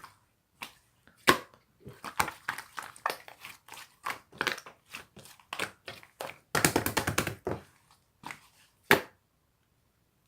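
Slime being pressed and squished, giving runs of quick pops and crackles. The busiest stretch comes about two-thirds through, and the sound stops shortly before the end.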